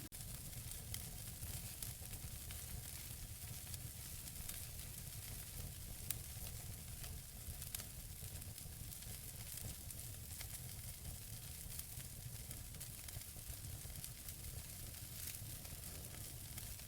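Wood fire burning in a fireplace: a steady soft hiss and low rumble with scattered small crackles, and one sharper pop about six seconds in.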